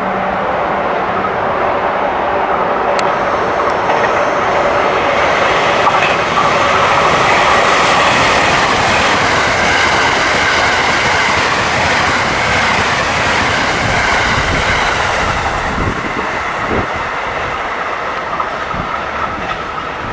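A 9-car JR West 683-series electric limited express passing at speed. A steady rush of wheel and running noise builds to its loudest about eight seconds in, then slowly fades, with wheels clacking over rail joints.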